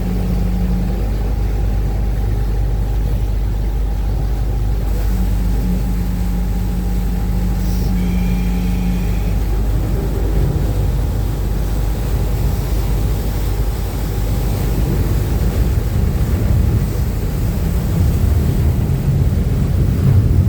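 Uber Boat river bus's engines running with a steady low drone and hum, with a tone that fades in and out.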